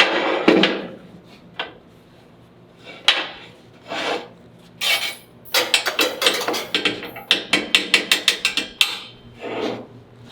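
Hammer tapping and scraping on steel exhaust pipe as a section is worked into position for tacking: irregular sharp metal knocks, then a quick run of taps about four or five a second from about five to nine seconds in.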